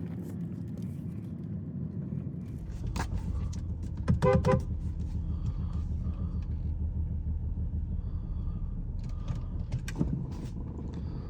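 2006 BMW 325i's straight-six engine running with a steady low rumble, stronger from about two and a half seconds in as the car is moved, while it has a misfire (later read out as cylinder 5). A brief pulsing tone about four seconds in is the loudest sound.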